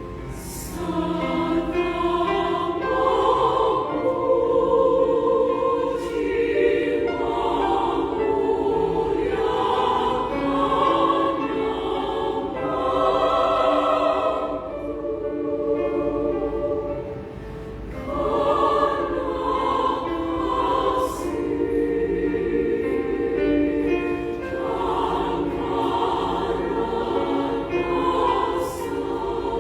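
Women's choir singing in parts, in sustained phrases with a short breath pause about two-thirds of the way through.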